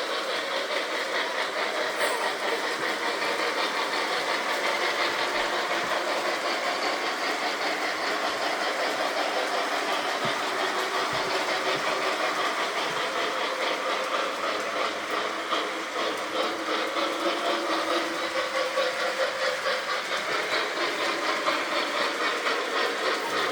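Model train running on its track: a steady mechanical running sound with a fast, even clicking rhythm throughout.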